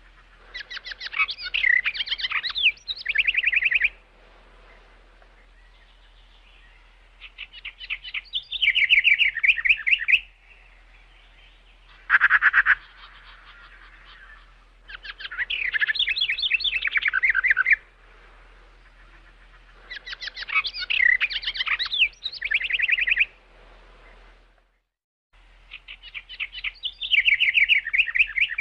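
Birds chirping in bursts of rapid trilled chirps, each lasting a few seconds, repeating every five to six seconds with short quiet gaps between.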